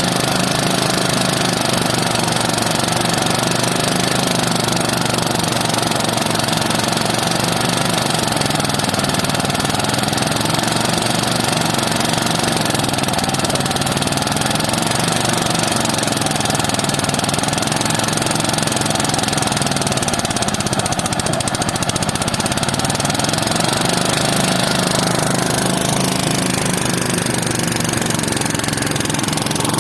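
An engine running continuously, its pitch sagging and recovering several times as it takes and sheds load, dipping deepest about two-thirds of the way through.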